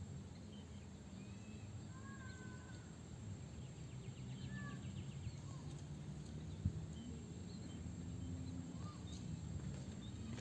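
Birds giving scattered short whistled chirps over a steady low rumble, with a single sharp click about two-thirds of the way through.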